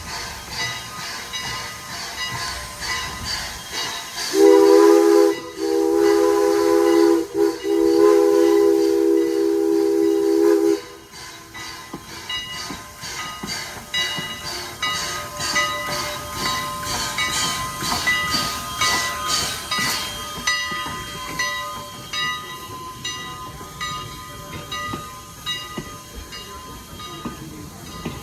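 Steam locomotive running, its exhaust beating in a steady rhythm with hissing steam. About four seconds in, its whistle sounds a chord of several notes for about six seconds, with two very short breaks.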